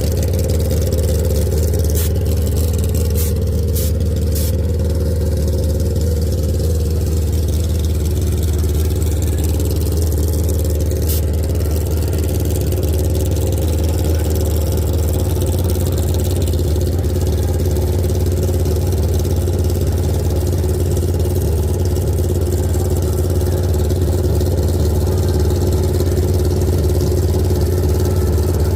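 Drag-racing motorcycle engine idling steadily with a low, even drone, with a few faint clicks.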